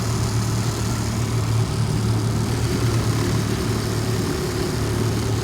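2003 Tohatsu outboard motor idling fast and steady just after a cold start, not yet settled down to a slow idle.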